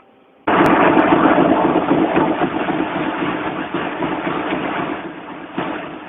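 Uniman newspaper printing press running: a loud, dense mechanical clatter that comes in abruptly about half a second in and slowly eases off, with a single sharp knock near the end.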